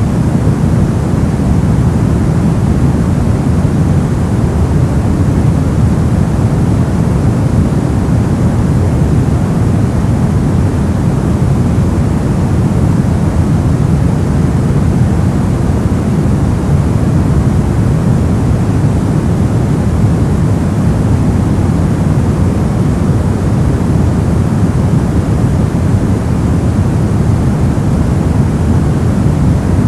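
Brown noise: a steady, deep rushing hiss, strongest in the low end, with no changes or events.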